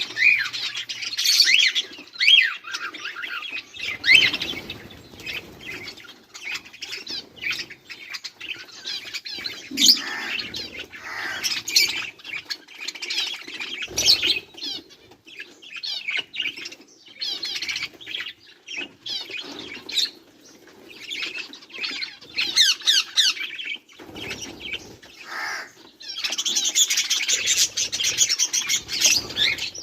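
A flock of budgerigars chirping and chattering in many quick, overlapping calls, with a dense stretch of chatter near the end.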